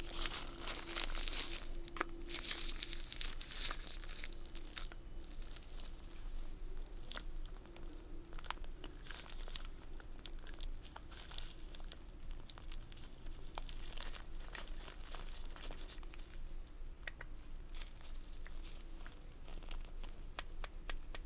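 Crinkling and rustling with many scattered light clicks and taps as ASMR props are handled, over a faint steady hum.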